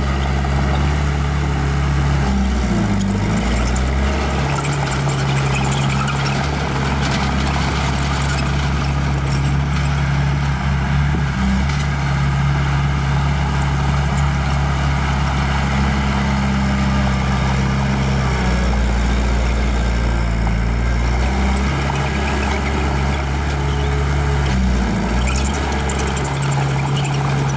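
Diesel engine of a small bulldozer running steadily under work. Its low note wobbles briefly twice, about three seconds in and near the end.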